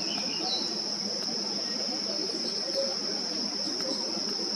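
Insects trilling in one steady, unbroken high-pitched drone, with a faint short chirp about half a second in.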